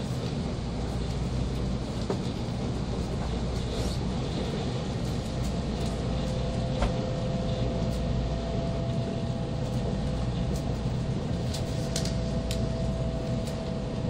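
Inside an N700 series Shinkansen carriage running at reduced speed: a steady low rumble of the train, with a faint steady tone setting in about six seconds in and a couple of sharp clicks.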